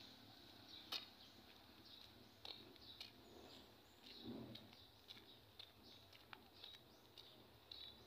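Faint, scattered bird chirps over a quiet outdoor background, with a sharp click about a second in.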